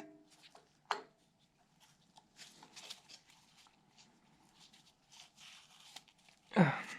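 Faint clicks and rustles of hands handling engine parts, with one sharper click about a second in and a short voice sound near the end.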